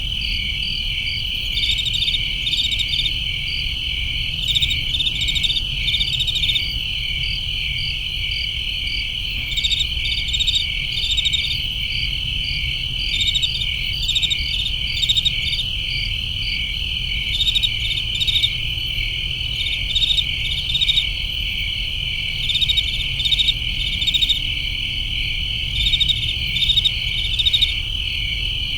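Crickets chirping at night: a steady high pulsing trill, with louder chirps coming in short groups every second or so, over a low steady rumble.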